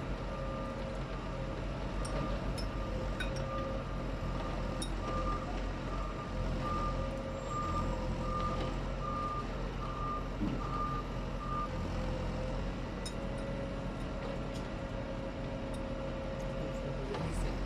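Heavy vehicle's reversing alarm beeping in an even repeating rhythm over its running diesel engine; the beeping stops about twelve seconds in while the engine keeps running.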